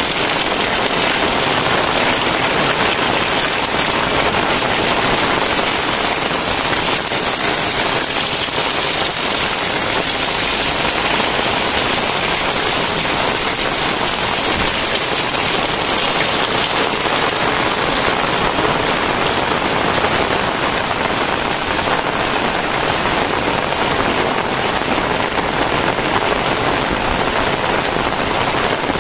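Very heavy rain falling steadily, a dense unbroken hiss of drops striking surfaces.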